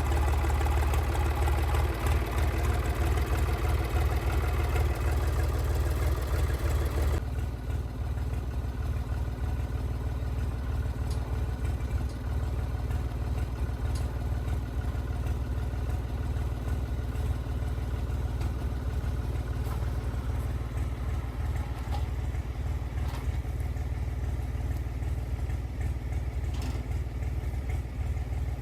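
Woodland Mills HM122 sawmill's small gasoline engine running steadily. A harsher, fuller noise on top of the engine cuts off suddenly about seven seconds in, leaving the engine running alone.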